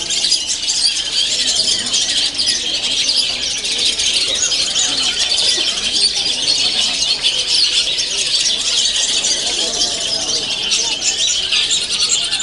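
Many caged long-tailed shrikes (cendet) singing and calling at once, a dense, shrill, unbroken chorus of chirps, whistles and squeals.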